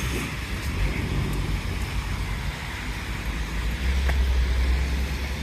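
Road traffic going by: a steady low rumble with a hiss over it, swelling a little about four seconds in.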